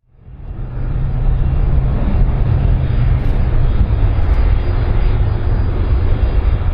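Large airplane's engines running, a heavy steady rumble that fades in from silence within the first second.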